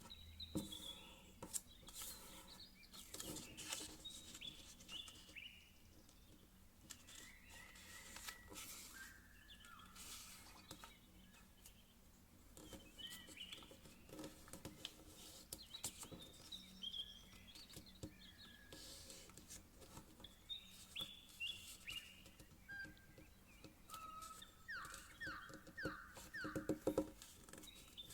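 Quiet handling of a sheet of paper being folded into a paper plane: repeated rustles, crackles and creases. Short high chirping squeaks run all through it, with a quick run of them near the end.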